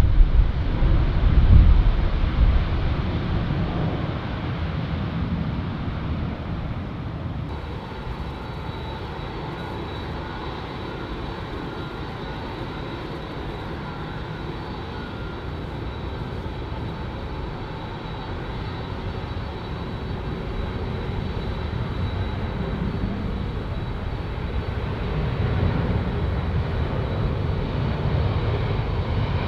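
Jet airliner's engines running at a distance: a steady rumble with a faint high whine, swelling again near the end. Wind buffets the microphone in the first few seconds.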